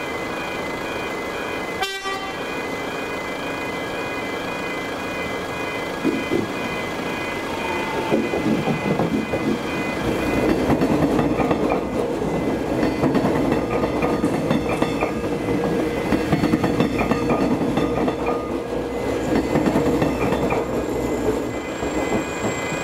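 Railway level crossing alarm bells ringing steadily while a Metro electric suburban train runs through the crossing. The train's rumble and wheel clatter build from about eight seconds in and ease off near the end. A sharp knock about two seconds in.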